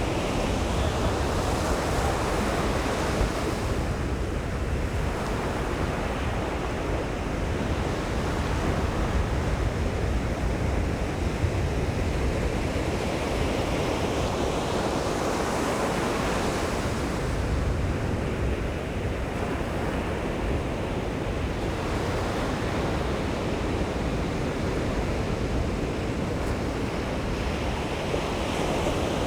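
Ocean surf: waves breaking and washing up a sandy beach in a continuous rush that swells and eases every few seconds, with some wind on the microphone.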